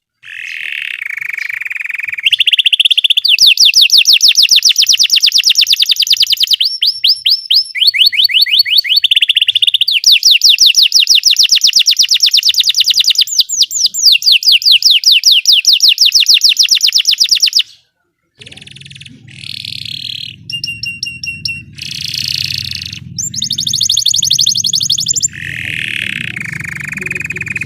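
Belgian canary singing a long song of rapid trills, fast runs of repeated high notes that change pattern every few seconds. The song breaks off briefly about two-thirds of the way through and resumes over a low steady hum.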